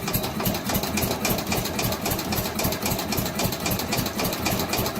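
Allis Chalmers Big Ten's Briggs & Stratton engine being cranked over by its starter, a rapid even beat that goes on for about five seconds without the engine catching. It turns over but won't fire, even with fuel poured into the carburettor; the choke may not be working, and it may be flooded.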